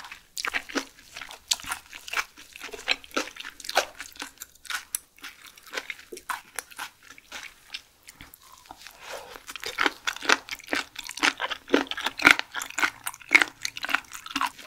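Close-miked chewing of raw seafood: many quick, wet crunching and smacking clicks, denser in the second half.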